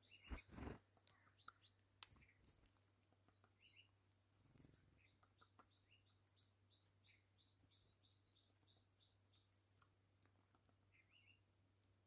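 Faint chirping of small birds, including quick runs of short, high, evenly spaced notes about four a second. There is a cluster of soft taps and a thump about half a second in, and a few more taps later.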